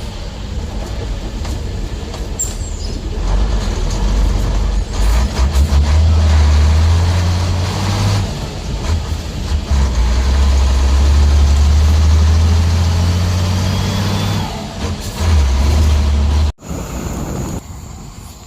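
A heavy motor vehicle's engine running with a loud, low rumble. It cuts off abruptly near the end, leaving a quieter background.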